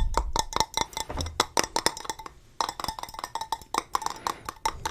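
Rapid ASMR tapping with the fingers on a hard object: quick, sharp taps with a short pause a little over two seconds in.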